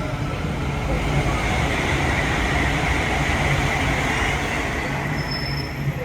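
Battery-powered Class 230 train, a converted London Underground D-stock unit, running into the platform. Its steady rumble and rail noise swell about a second in, and a brief high tone sounds near the end.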